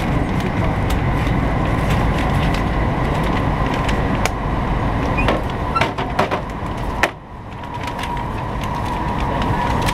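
Cabin noise of a 200 series Shinkansen running at speed: a steady heavy rumble with a few sharp clicks. The noise drops suddenly about seven seconds in and builds back up, with a faint steady whine coming in near the end.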